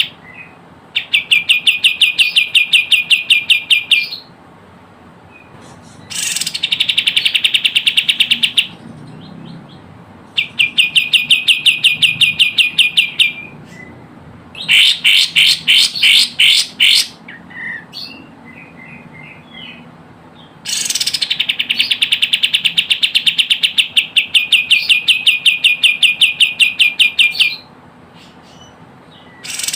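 Recorded song of the kapas tembak, a bulbul, played as a lure call. It comes in loud phrases of fast, evenly repeated chattering notes lasting several seconds, broken by short pauses, with a slower run of stronger notes about halfway through.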